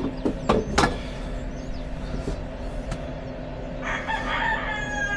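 A rooster crowing once near the end, over a steady low hum, with a few sharp knocks about half a second in.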